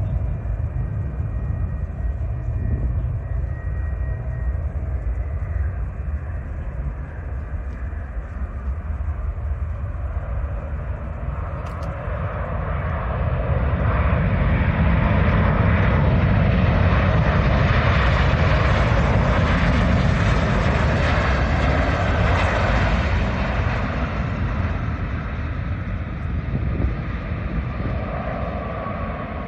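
Jet airliner's engines passing close by: the noise swells up, holds at its loudest for several seconds, then fades, with a faint falling whine near the end.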